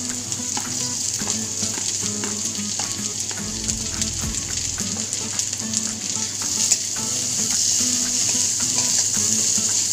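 Diced capsicum, paneer, corn and onion sizzling in oil in a steel kadhai, with a spatula scraping and tapping the pan as they are stirred, and one sharper knock about seven seconds in.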